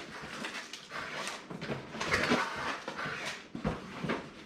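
Packaging rustling as small accessories are taken out of a motherboard box and handled, in irregular scratchy rustles.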